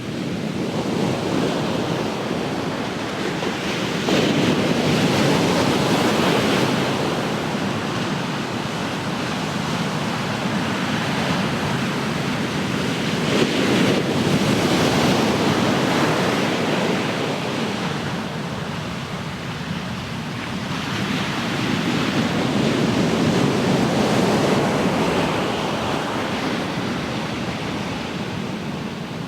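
Ocean surf: waves breaking and washing up the shore, the rush swelling and ebbing three times, about every nine seconds.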